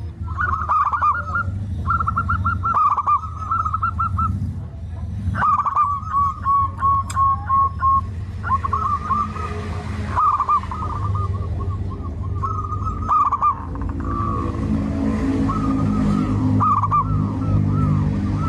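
Zebra doves (perkutut) cooing: repeated phrases of short rolling, drooping notes, one phrase running into an even string of notes midway. A steady low hum sits underneath and grows stronger near the end.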